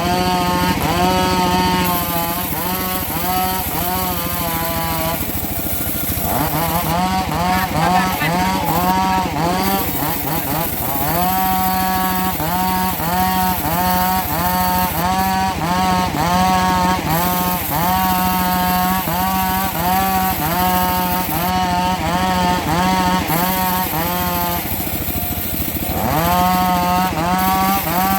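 Engine-driven saw cutting mahogany, its engine note rising and falling about twice a second as the blade loads and frees, with two short dips in the rhythm.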